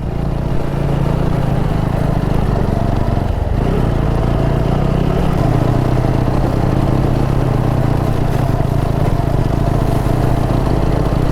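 Motorcycle engine running steadily while under way, with a constant low engine note and road noise.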